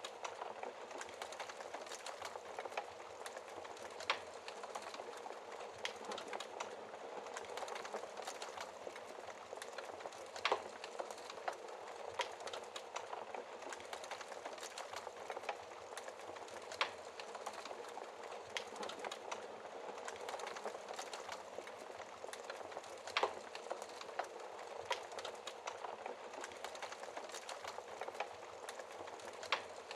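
Log fire crackling, with sharp pops scattered throughout and the loudest every few seconds, over a steady rain hiss.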